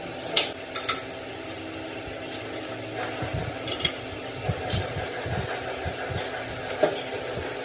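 A few sharp clinks, like metal or glass being knocked, over a steady background hum, with some low thuds in the middle.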